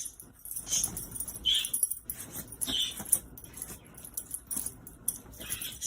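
A dog moving about with light metallic jingling and clinking, like collar tags, in irregular short bursts, with a few brief high-pitched whines.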